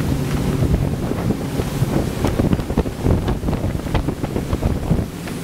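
Carver 3207 motor yacht under way: a steady engine drone with wind buffeting the microphone and irregular thuds of the hull running through waves.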